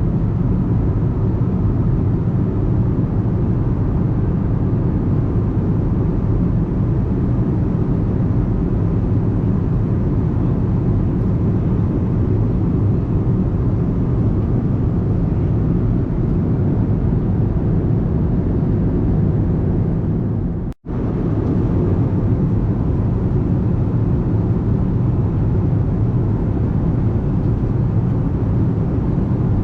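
Steady low drone of an Airbus A320's engines and airflow heard inside the passenger cabin from a rear window seat. There is a momentary break in the sound about two-thirds of the way through.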